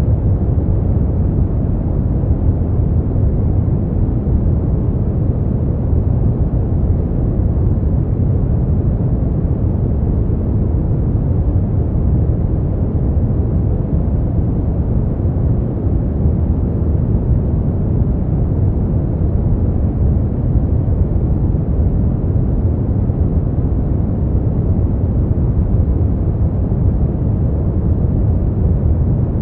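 Continuous noise-generator track of the kind played for sleep and study, sold as white noise: a steady, unchanging deep hiss with most of its weight in the low end and little treble.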